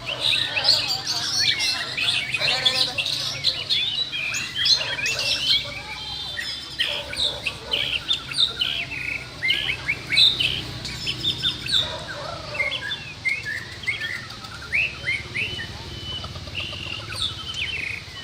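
Several white-rumped shamas singing at once: dense, overlapping runs of clear whistles and quick chirps that keep on without a break.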